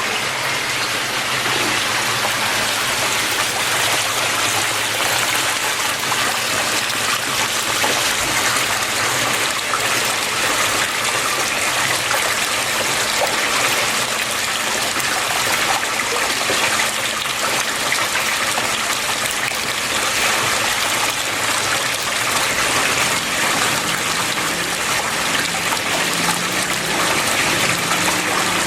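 Water flowing and splashing steadily, an even trickling rush that does not change.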